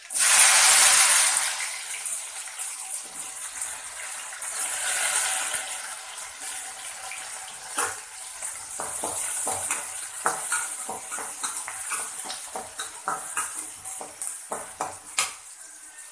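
Chopped onions and green chillies hitting hot oil in an aluminium kadai: a sudden loud sizzle that eases over a second or two, then settles into a steady sizzle. From about halfway, a metal spatula scrapes and clicks against the pan as the onions are stirred.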